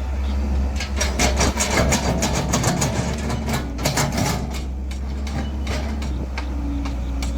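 Cat 312 excavator's diesel engine running steadily, with a dense rattling clatter of knocks for the first few seconds that thins out about halfway through.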